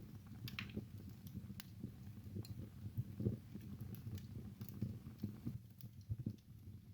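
Wood fire burning in a fireplace: irregular snaps and crackles of burning logs over a low, soft rumble of the flames.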